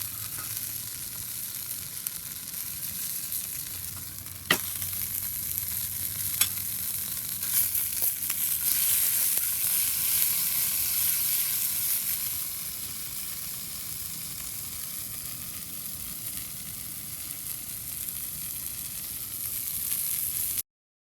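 Food sizzling and frying in a pan over a wood fire, a steady hiss with a few sharp clicks. It grows louder for a few seconds around the middle, then cuts off abruptly near the end.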